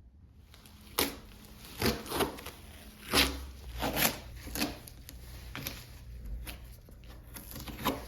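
Hand tool scraping over surfboard repair filler in about ten irregular strokes, a few of them sharper and louder in the first half.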